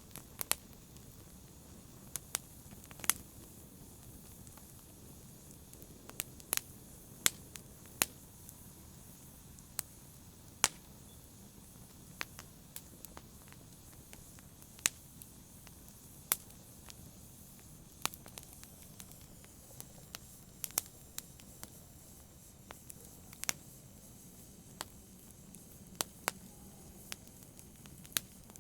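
Campfire burning with a soft steady hiss and irregular sharp crackles and pops of burning wood, some much louder than others.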